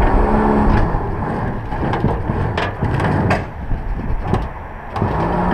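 Wind buffeting the microphone with a heavy rumble, a few sharp knocks, and a steady engine-like hum at the start that returns near the end.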